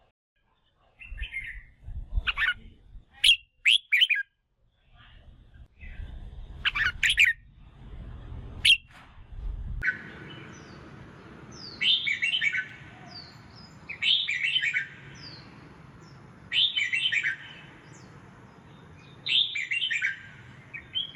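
Red-whiskered bulbul calling and singing. Short, sharp notes come first, over a low rumble that stops abruptly about ten seconds in. After that a warbled phrase repeats about every two and a half seconds.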